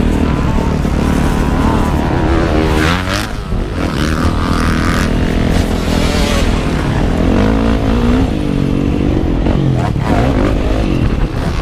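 Motocross bike engine revving up and falling back again and again as it is ridden round the track, heard close up from the rider's own position, over a heavy low rumble.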